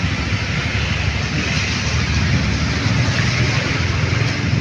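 Motorcycle riding along with its engine running steadily, under a constant rumble of wind buffeting the microphone.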